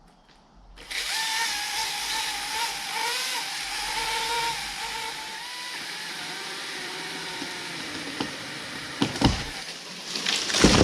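Stihl MS660 chainsaw running at full throttle through a felling cut, its pitch wavering under load. Near the end come a couple of sharp cracks and a loud crash as the dead ash tree comes down.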